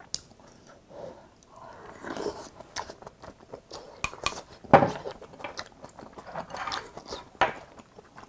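Close-miked chewing of a mouthful of rice and army stew: wet mouth smacks and small clicks, with a louder smack just before the middle.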